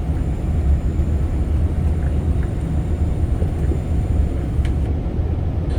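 Steady engine and road rumble inside a moving tour coach, a low, even drone.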